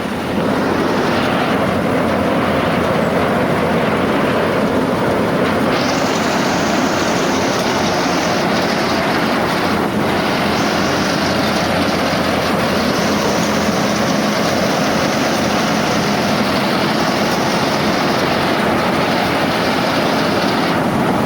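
Harvesting machinery running loudly and steadily, with a brighter hiss joining about six seconds in.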